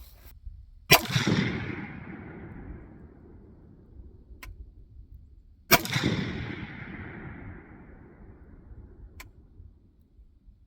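Two single rifle shots from a custom-built AR-15 fired semi-automatic, about five seconds apart, each a sharp crack followed by an echo that dies away over a couple of seconds. These are the first shots from the newly built rifle while its optic is sighted in; a faint click comes a few seconds after each shot.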